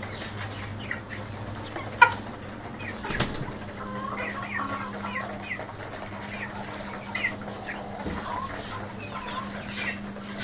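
Chickens clucking with many short, scattered calls, over a steady low hum. A sharp knock about two seconds in and a smaller one about a second later.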